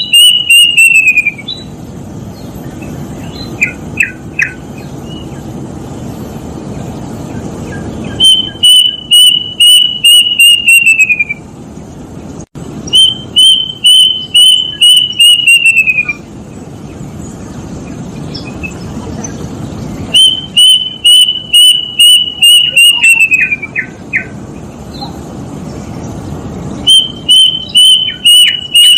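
Kedasih cuckoo singing: phrases of about seven clear whistled notes on one pitch, the last few sliding downward, repeated four times with pauses of a few seconds between. A steady low rumble fills the gaps.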